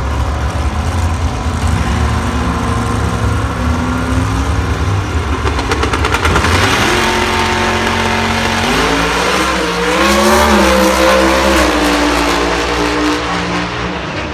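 V8 drag car accelerating hard down the strip, its engine pitch climbing and dropping back at gear changes about six and a half and nine seconds in.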